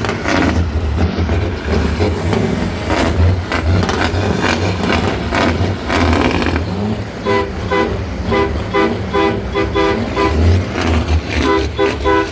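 Heavy truck engine running, with a vehicle horn tooting in a rapid series of short blasts from about seven seconds in.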